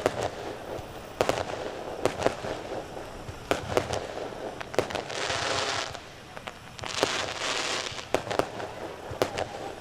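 Fireworks display: a rapid, irregular series of sharp aerial-shell bangs, with two stretches of hissing about five and seven seconds in.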